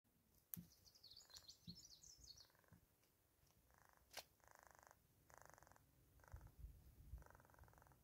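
Faint bird sounds: high twittering for the first couple of seconds, then a series of short buzzy trills repeating with brief gaps. Two sharp clicks stand out, one about half a second in and one about four seconds in.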